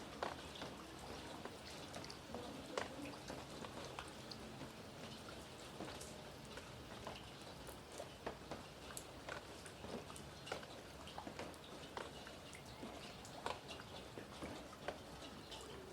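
Rain falling: a steady hiss with many irregular sharp drop impacts on a hard surface.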